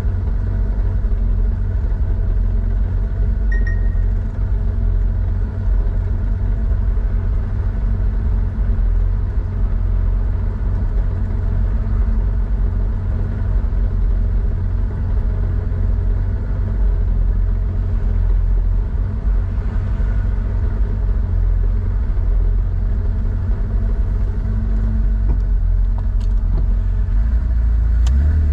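1987 Porsche 911's air-cooled 3.4-litre flat-six running at steady revs through a Scart two-into-one-out muffler.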